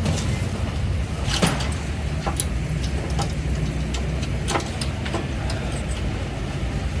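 An engine running steadily at a low rumble, with a few sharp clicks and knocks over it, the clearest about one and a half and four and a half seconds in.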